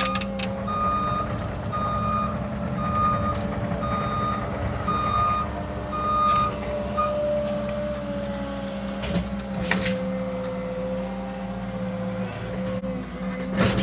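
Cat 306 mini excavator's warning alarm beeping steadily, a little under two beeps a second, over the machine's steady diesel engine note. The beeping stops about seven seconds in, and a few sharp knocks or clanks follow later as the machine works.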